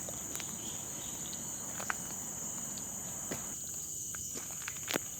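Forest insects droning in a steady high-pitched chorus, with a few faint clicks of footsteps on a dirt path.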